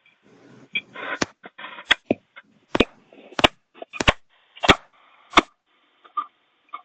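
A series of sharp knocks or clicks, about one every two-thirds of a second, starting about a second in, with rustling noise between the first few; no source for them is visible.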